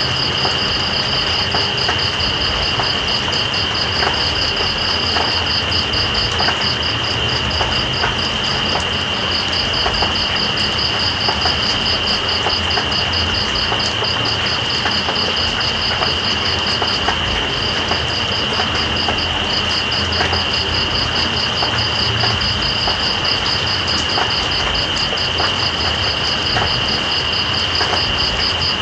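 Night insects trilling: one holds a steady high-pitched trill while another pulses rapidly just above it, pausing briefly twice midway. Underneath runs an even hiss of rain with scattered drop ticks.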